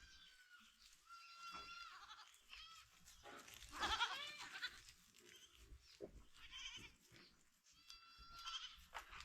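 Goats in a herd bleating, several wavering calls one after another, the loudest about four seconds in.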